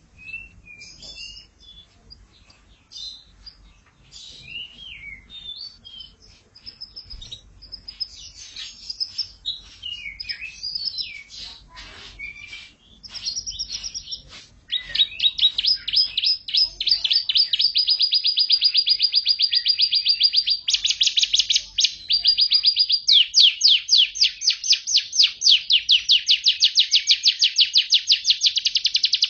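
Canary singing: varied short chirps and gliding whistles at first, then, about halfway through, loud rapid trills of quickly repeated notes that shift to a new trill every few seconds.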